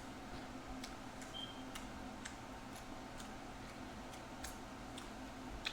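Faint chewing: soft, irregular mouth clicks about twice a second over a steady low hum.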